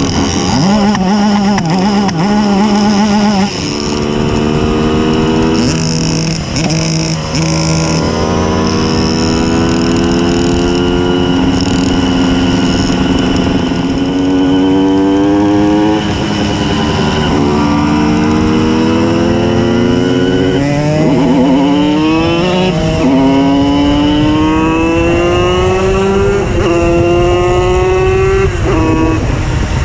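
Simson S51 moped's tuned 90 cc reed-valve two-stroke engine running under load, its pitch climbing steadily through each gear and dropping back at each shift, again and again.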